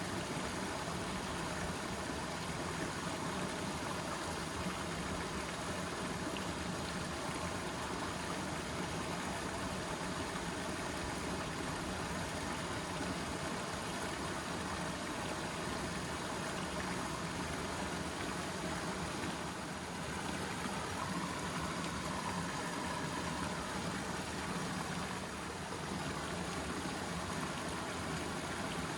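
Steady rushing of water, an even unbroken hiss with no distinct strokes.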